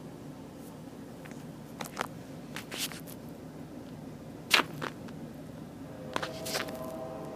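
Steady low rumble of a moving passenger train heard from inside the car, with pairs of sharp clacks as the wheels pass over the track, the loudest about halfway through. A faint steady tone comes in near the end.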